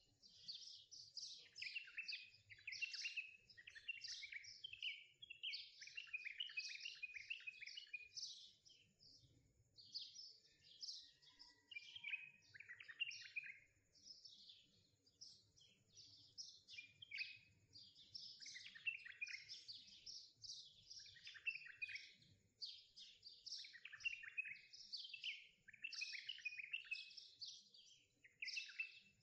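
Faint birdsong: several birds chirping and trilling in quick, overlapping, high-pitched calls.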